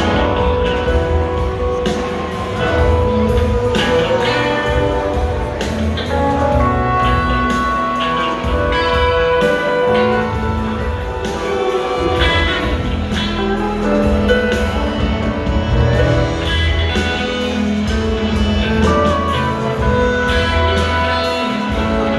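Live rock band playing, with electric guitars, bass and drums; no singing stands out.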